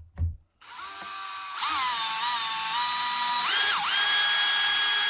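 Electric drill-driver driving a screw into an RC truck's bellcrank assembly. The motor whine starts about half a second in, speeds up about a second later, dips briefly, then runs steadily.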